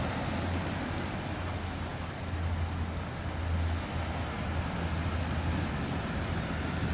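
Steady rain falling, an even hiss, with a continuous low rumble underneath.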